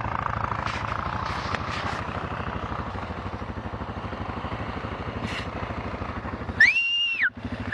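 Vehicle engine running steadily with a rapid, even pulsing beat. About six and a half seconds in it cuts off abruptly, and a loud high-pitched sound rises, holds briefly and falls.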